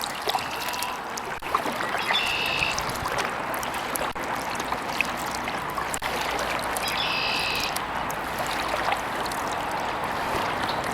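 Water trickling and dripping around a kayak paddle over a steady rushing background, with a bird calling briefly about two seconds in and again about seven seconds in.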